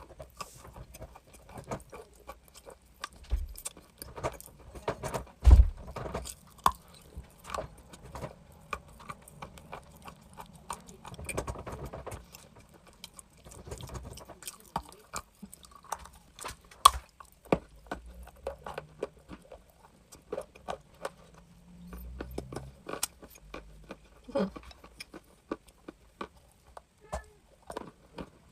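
Close-miked chewing of crunchy chalk: a dense, irregular run of sharp crunches and small clicks, with a few louder snaps.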